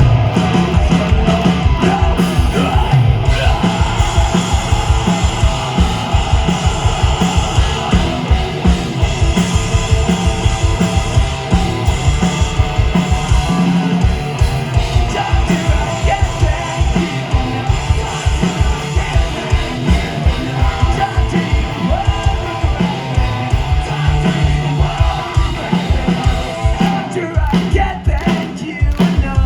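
Post-hardcore rock band playing live at full volume: distorted electric guitars, fast pounding drums and yelled, sung vocals.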